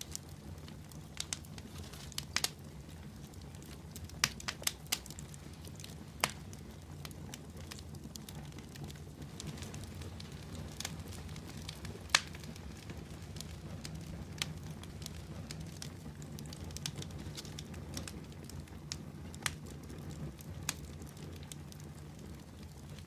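Fire crackling in a fireplace: irregular sharp pops and snaps over a steady low rumble of flames, with one louder pop about halfway through.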